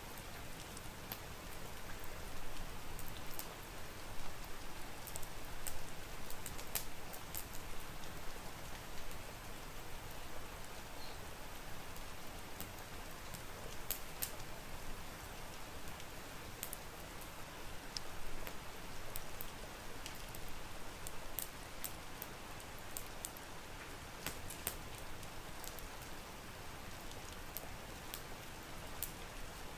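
Steady rain falling, with many scattered sharp crackles and pops from a wood fire.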